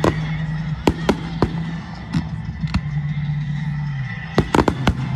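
Fireworks display: sharp bangs going off irregularly, with a quick burst of several bangs close together near the end, over steady low background music.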